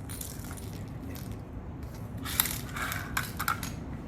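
Small toys being handled: a run of light clicks and rustles, busiest a little past the middle, over a low steady hum.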